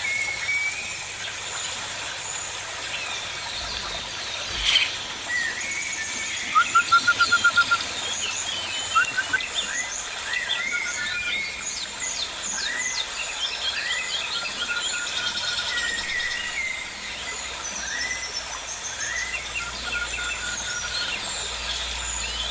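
Several birds in an aviary chirping and calling over one another with short whistled notes, busiest in the middle. About a third of the way in there is a fast run of repeated notes, the loudest calling, and a few seconds in there is a single sharp knock.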